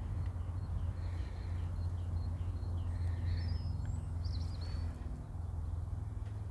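Small birds chirping in a quick repeated series of short notes, about two a second, with a brighter call about four and a half seconds in, over a steady low rumble.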